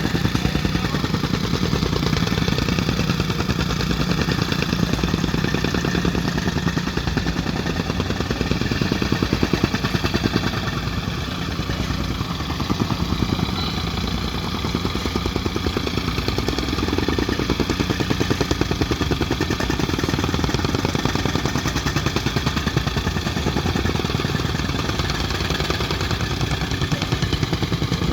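An engine running steadily with a rapid pulsing, most likely concrete-pouring machinery.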